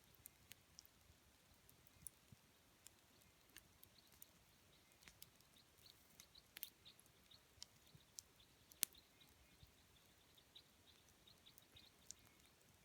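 Wood campfire crackling: scattered sharp pops and snaps over a faint hiss, with one louder snap a little under two-thirds of the way through.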